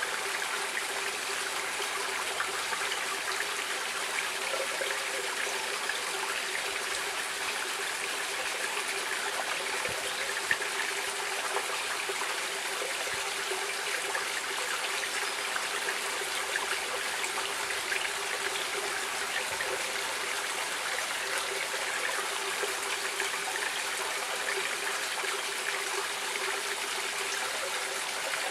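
A stream of water flowing and trickling, a steady babbling rush without pause, with one brief sharp sound about ten seconds in.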